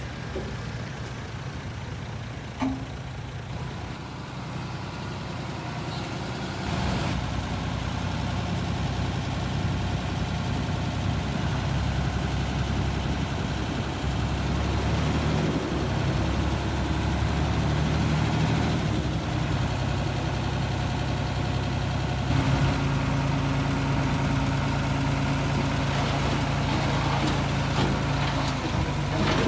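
Heavy diesel engine of an earthmoving machine running steadily. It grows louder about seven seconds in, and its pitch shifts about twenty-two seconds in.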